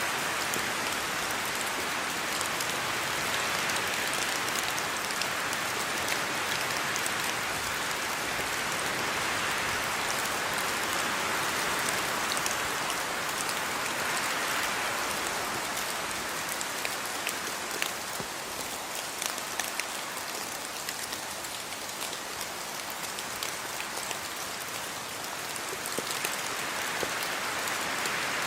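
Steady rain falling, with individual drops pattering on a surface. It eases a little past the middle and picks up again near the end.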